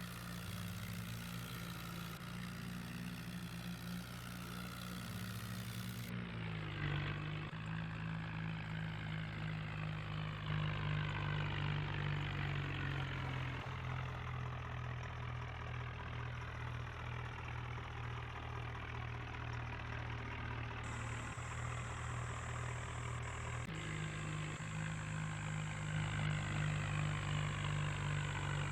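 New Holland tractor's diesel engine running steadily while pulling a fully loaded trolley, its note shifting slightly a couple of times.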